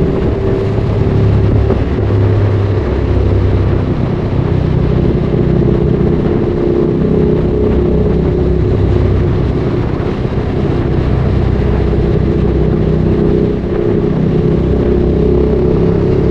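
Ducati Streetfighter 848's L-twin engine running through a Termignoni exhaust while riding. Its note drops in pitch after the start and climbs again near the end.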